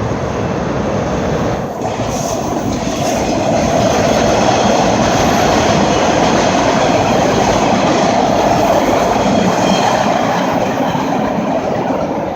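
An MBTA Orange Line subway train passing on the rails: a steady rush of wheel and track noise that swells about four seconds in and eases slightly near the end.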